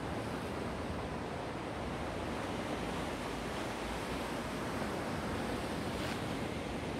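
Black Sea waves washing onto the shore in a steady, even rush of surf, with some wind noise on the microphone.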